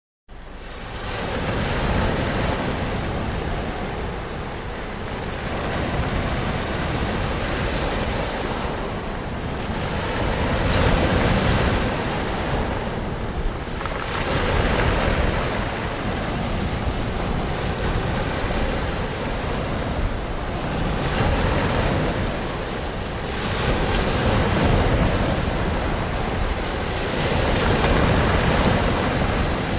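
Ocean surf: waves breaking and washing in, the noise swelling and easing every few seconds. It starts suddenly just after the beginning, out of a moment of silence.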